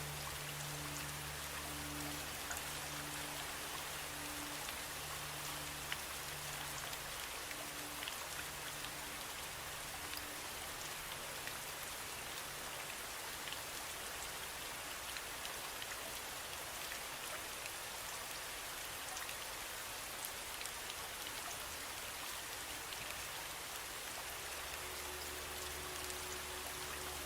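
Steady rain falling, an even hiss with individual drops ticking through it. Faint low sustained tones sit under the rain, dying away in the first ten seconds and coming back near the end.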